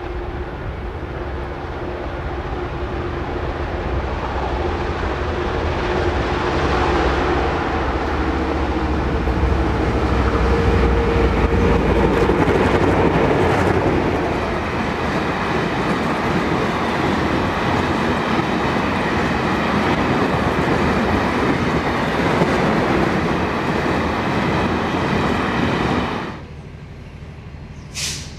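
Diesel locomotives hauling an oil tank train, their engines working hard as they approach and pass, followed by a steady rumble as the tank wagons roll by. The sound drops off suddenly near the end, with one short click just after.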